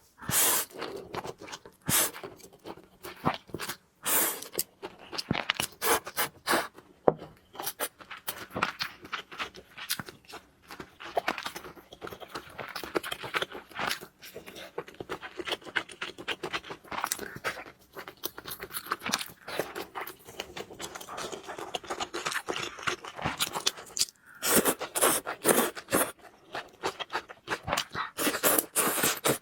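Close-up food handling and eating sounds: a busy, irregular run of scrapes, crinkles and crunchy clicks.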